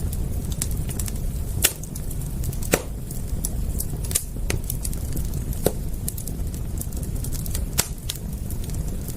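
Wood fire crackling: irregular sharp pops and snaps, a few of them louder, over a steady low rumble.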